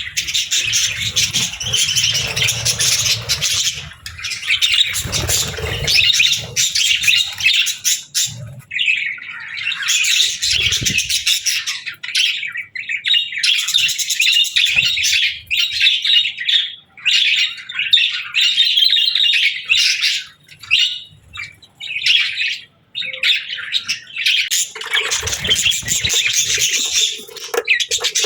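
A flock of budgerigars chattering and chirping in a dense, continuous warble, with a few brief pauses past the middle. There is a low rumbling underneath in the first several seconds and again near the end.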